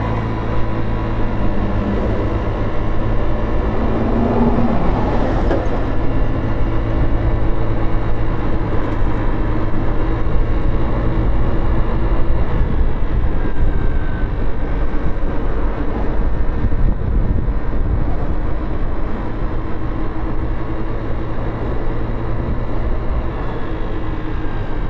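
Motorcycle engine running at steady revs, heard from the bike, with road traffic noise around it; a short rising tone about four seconds in.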